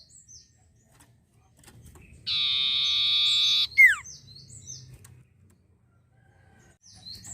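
Sirtu songbird calling: a long, even buzzing trill lasting about a second and a half, ended by a sharp down-slurred whistle, the loudest note, then a few short high chirps. A few more short chirps come near the end.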